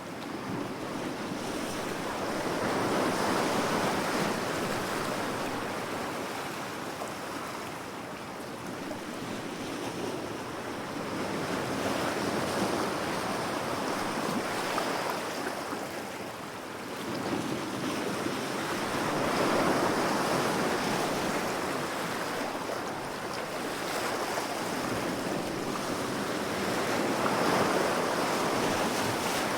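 Ocean waves breaking and washing up the shore, the surf noise swelling and ebbing in slow surges several seconds apart.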